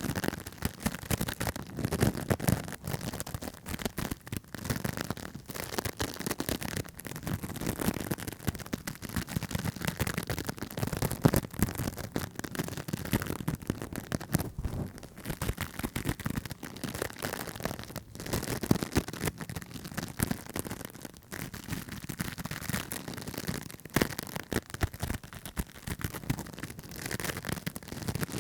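Close-miked ASMR tapping and scratching on objects: a dense, continuous stream of quick crackling clicks.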